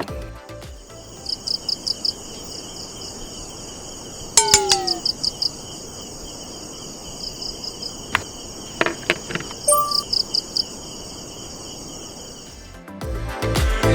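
Insects chirping in short rhythmic trains over a steady high buzz, with a brief falling bird call about four and a half seconds in and a few clicks near the middle. Music comes back in near the end.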